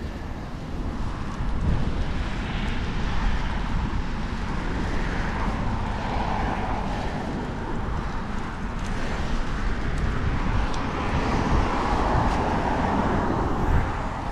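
Wind buffeting the microphone of a moving bicycle, with city traffic noise that swells twice, about six and twelve seconds in, as vehicles pass.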